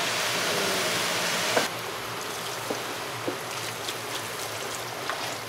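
Beef and sliced onions sizzling in a large aluminium pot, a steady hiss that drops to a quieter level suddenly about one and a half seconds in. A few light metal clicks of a spatula against the pot follow.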